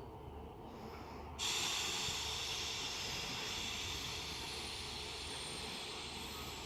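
Air brakes of Class 150 Sprinter unit 150257 hissing: a sudden hiss of air starts about a second and a half in and holds steady, fading slightly. It is the brake noise the uploader calls bad airbrakes.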